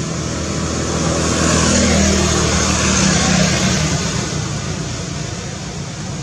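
A motor vehicle passing: a low engine hum with road noise that swells over a couple of seconds and then fades away, over a steady background hiss.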